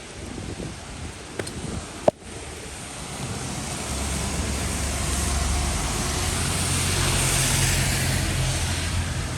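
A motor vehicle passing on a wet street: its engine rumble and tyre hiss build from about three seconds in and peak near the end, over the hiss of rain. A single sharp click about two seconds in.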